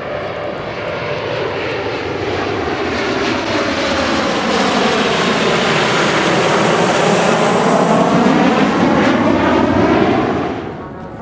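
Kawasaki T-4 jet trainers' turbofan engines in a low display pass: jet noise swells steadily for about eight seconds, with a sweeping, phasing whoosh as the aircraft go by, then falls away sharply near the end.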